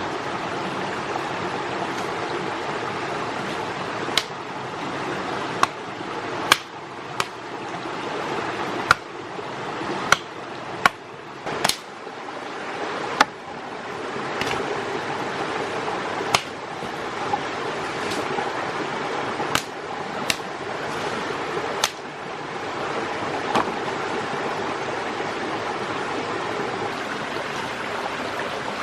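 Steady rushing water, as of a stream, with a run of about fifteen sharp knocks at uneven intervals through the middle.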